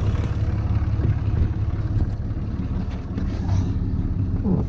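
Dodge 2500 pickup's Cummins inline-six turbodiesel engine idling steadily with a low rumble.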